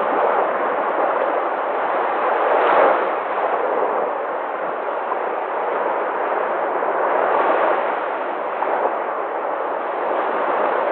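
Sea waves breaking in a steady, dense wash of surf, swelling slightly about three seconds in and again near eight seconds.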